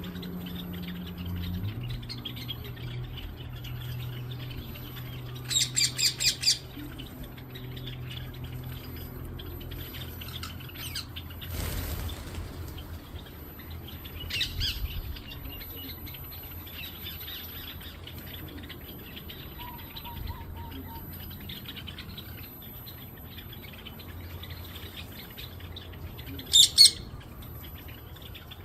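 Parrot squawking: a quick run of about five squawks about five seconds in, a single call around the middle, and two loud squawks near the end.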